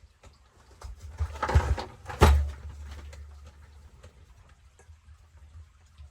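Handling noises from parts and tools at a workbench: scattered light clicks, a brief scraping sound about a second and a half in, then a sharp knock with a low thud just after two seconds.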